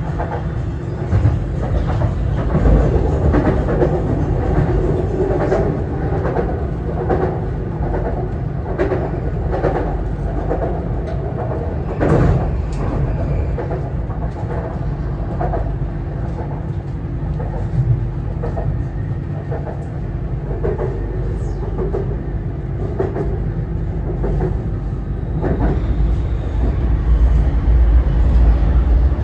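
BTS Skytrain EMU-B1 electric train running, heard from inside the car: a steady low rumble with a steady hum and scattered clacks and knocks from the wheels on the track, growing louder near the end.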